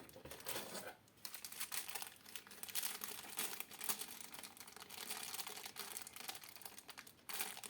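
Packaging crinkling and rustling in irregular bursts as the cooler's parts are handled, with a short pause near the end.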